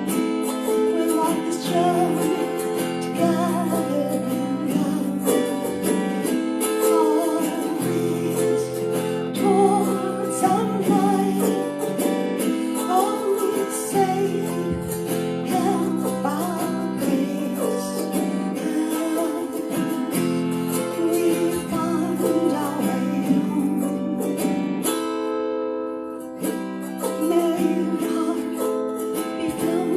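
Meditative music played on a guitar-like plucked string instrument, with held, layered tones and a wavering melody over them. It thins out briefly a little before the end.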